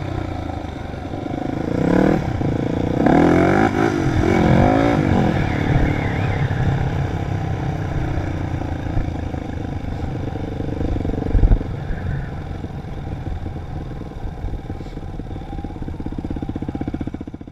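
Dirt bike engine revving up and down a few times, then running steadily at low revs. A single loud knock comes about eleven seconds in.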